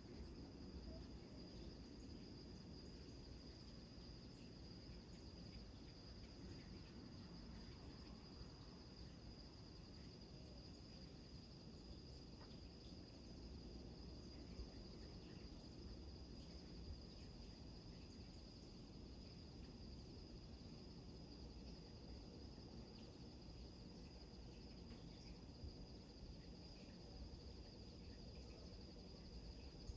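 Faint night chorus of crickets, a steady high-pitched trill, over a constant low rumble of surf breaking on rocks.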